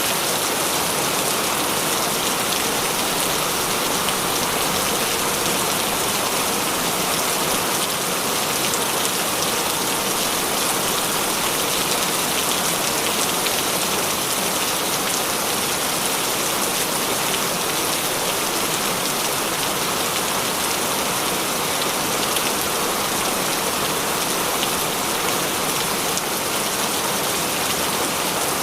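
Heavy rain falling steadily: a dense, even hiss with fine drop hits all through it.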